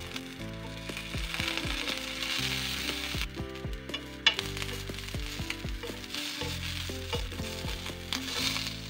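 Sausages sizzling in hot oil on a ridged grill pan, the sizzle swelling and easing as they are laid down and turned. There is one sharp click about four seconds in.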